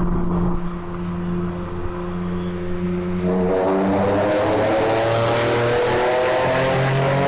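Honda NSX V6 through a Taitec JGTC parallel-exit exhaust, in a tunnel. It runs at a steady note, then about three seconds in it gets louder and climbs steadily in pitch as the car accelerates under throttle.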